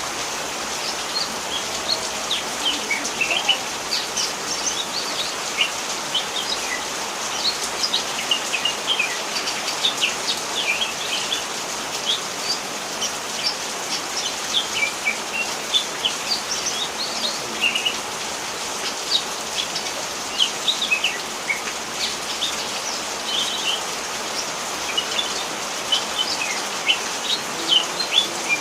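Green leafbird (cucak hijau) singing a running stream of short, quick chirps and whistles, over the steady hiss of rain.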